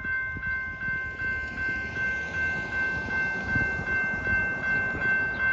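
Freight train cars rolling past a railroad grade crossing, with the crossing's warning bell ringing steadily about two and a half times a second over the rumble of the wheels.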